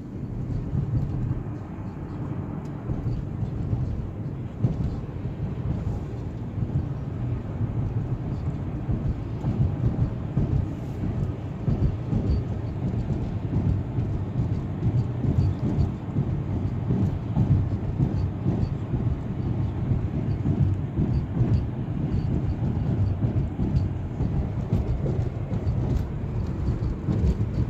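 Steady low rumble of a car driving: road and tyre noise with the engine underneath.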